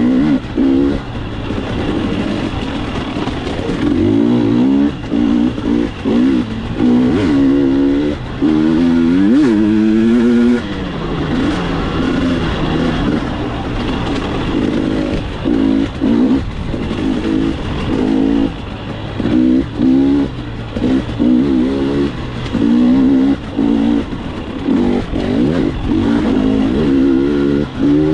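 Two-stroke dirt bike engine revving up and down with repeated short throttle blips as it is ridden, including one longer climb in pitch about ten seconds in that cuts off abruptly.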